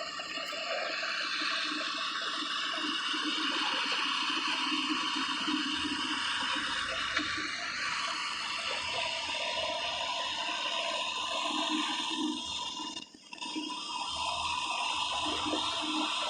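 Steady rushing noise of wind buffeting the microphone on a motorcycle being ridden, with the engine running underneath. It drops away briefly about thirteen seconds in.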